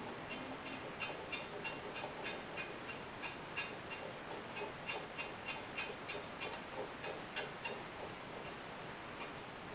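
Lawn mower deck spindle bearing clicking as the spindle is turned by hand, a run of sharp, uneven ticks about three a second. The bearing is dragging and binding and is being worked with fresh grease.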